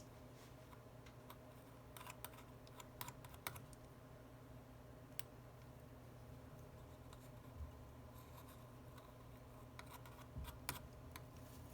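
Faint, scattered light clicks and taps of small repair tools and phone parts being handled on a workbench, bunched about two to three and a half seconds in and again near the end, over a steady low hum.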